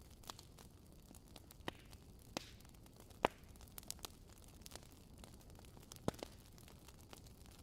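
Wood fire crackling: irregular sharp pops and snaps over a low steady hiss, the loudest pop about three seconds in.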